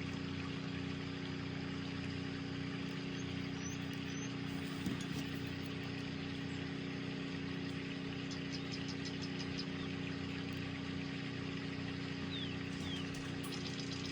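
Steady mechanical hum with a constant low tone, and a quick run of faint light ticks about eight seconds in.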